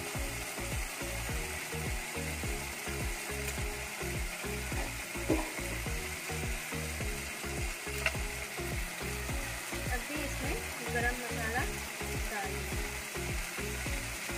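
Masala gravy with pieces of fried Bombay duck sizzling steadily in a kadhai over the flame, with two sharp clinks of utensils against the pan.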